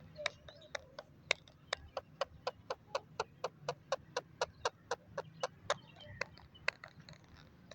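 A parrot making a rapid run of short clicking sounds, about four a second, for several seconds.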